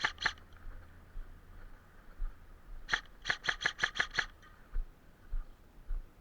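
Airsoft gun shots, sharp clicking cracks fired one at a time: two quick shots at the start, one near the middle, then a rapid string of about six shots at roughly six a second.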